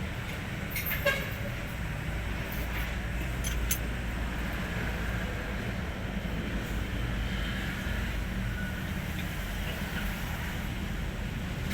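Hino 500 New Generation truck's diesel engine running steadily, with a few short clicks in the first few seconds.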